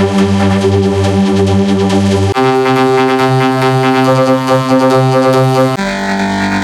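Electronically processed sound in the style of chorded, synthesizer-like audio effects: a loud, held droning chord. Its tone and pitches change abruptly about two and a half seconds in and again near the end.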